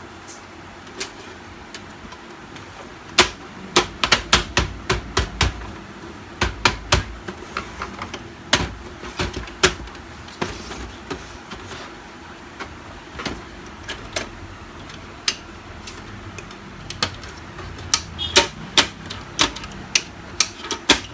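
Plastic top cover of a Canon LBP 6030 laser printer being pressed and snapped into place: a run of sharp plastic clicks and knocks in several quick clusters.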